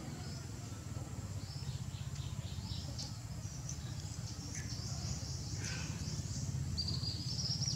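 Birds chirping in the background, with many short high calls and a higher steady trill near the end, over a low steady hum.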